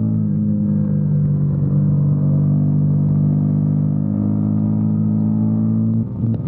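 Motorcycle engine running at a steady pitch while cruising, easing slightly in pitch over the first few seconds, with a brief dip about six seconds in.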